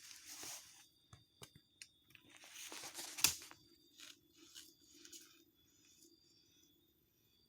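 Irregular crunching and tearing of soil, roots and dry leaf litter while a bamboo shoot is dug out, with one sharp crack about three seconds in. The sounds thin out and grow quieter near the end.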